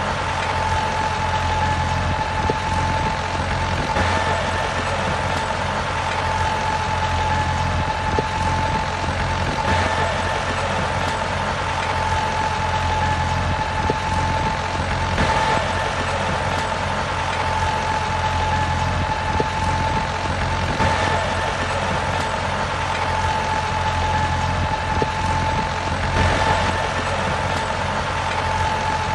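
Miniature model truck's motor running steadily: a constant high whine over a low hum, with no change in pitch.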